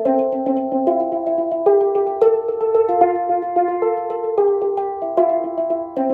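Handpan being played: a steady flow of struck notes, several a second, each ringing on and overlapping the next in a soft melodic pattern.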